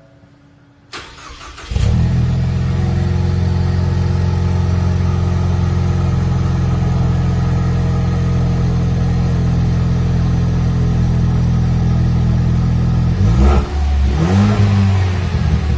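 Ford Mustang 2.3 L EcoBoost turbocharged four-cylinder starting up through a Vandemon valved cat-back exhaust, catching about two seconds in and then idling steadily. Near the end it is revved twice, and it settles back to idle.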